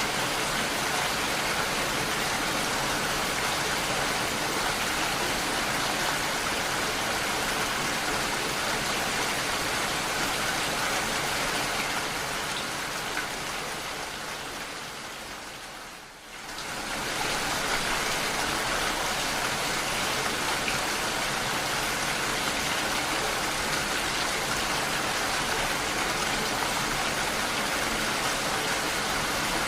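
Steady, dense rainfall with no pattern or rhythm in it. About halfway through it fades gradually to a low dip, then quickly swells back to full strength.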